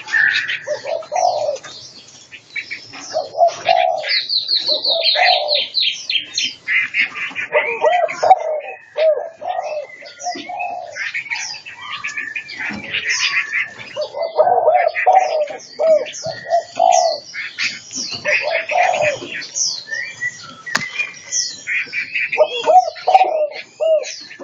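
Several birds calling at once: doves cooing in repeated low phrases under a busy stream of high chirps and quick songbird phrases.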